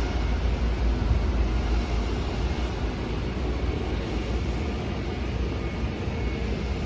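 A train running: a steady low rumble with a rushing noise over it.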